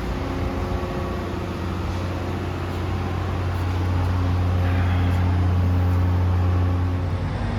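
A motor running steadily: a low, even hum over a hiss, growing a little louder about four seconds in.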